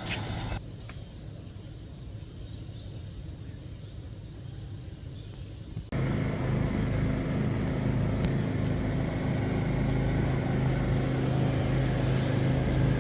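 A low rumble that, after an abrupt cut about six seconds in, turns into a louder, steady engine-like hum.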